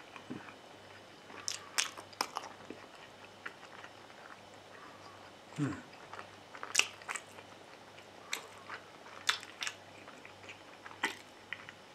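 Close-up chewing of a soft tortilla wrap: irregular wet mouth clicks and smacks, with one short low sound that drops in pitch about halfway through.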